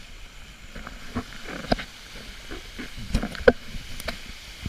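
A run of irregular knocks and clicks over a steady hiss of wind and water aboard a small sailing boat.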